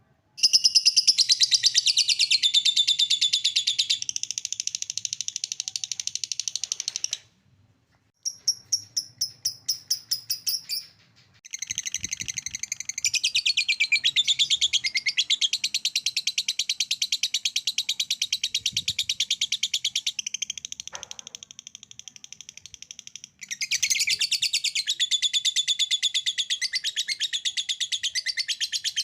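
Lovebird 'ngekek' song: long unbroken runs of rapid, shrill chattering notes. The runs are broken by a few brief pauses.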